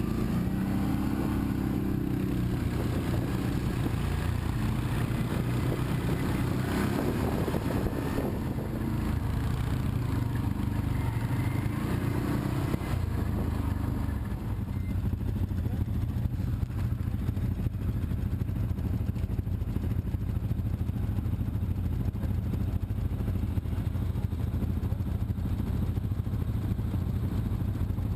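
An engine running steadily with a low rumble. It has a higher-pitched edge for the first dozen seconds or so, which then fades, leaving the low rumble alone.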